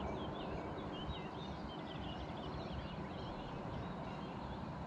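Small birds chirping in quick, short high calls, busiest in the first three seconds, over a steady low outdoor rumble.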